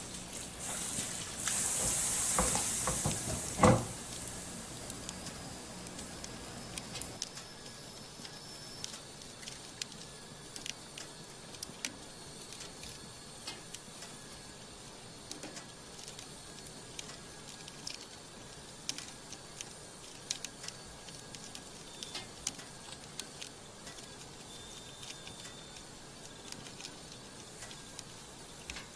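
Wood fire crackling under a cast-iron cauldron, with scattered small pops and clicks. For the first few seconds a loud hiss runs over it, ending in one sharp knock.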